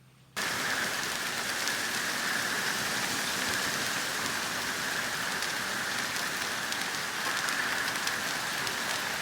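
Heavy hurricane rain falling steadily, an even hiss that starts abruptly just under half a second in and holds level throughout.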